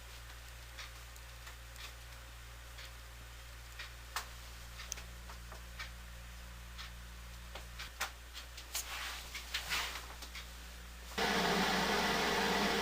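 Steady low hum with scattered faint clicks and taps. About eleven seconds in, a 1970 Triangle Mobile Home Products bathroom exhaust fan switches on: a sudden steady rush of air over its motor hum.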